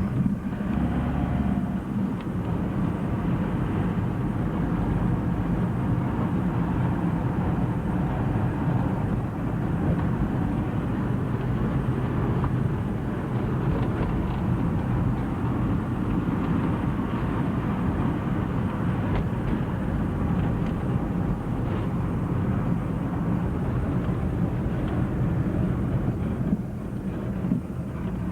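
Motor vehicle running: a steady engine and road rumble.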